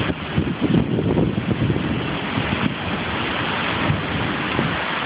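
Heavy thunderstorm downpour: a steady, dense hiss of rain, with close drops pattering unevenly, thickest in the first couple of seconds.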